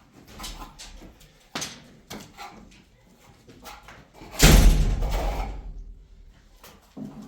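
Scattered light knocks and clatter, then one loud thud about four and a half seconds in that dies away over a second or so.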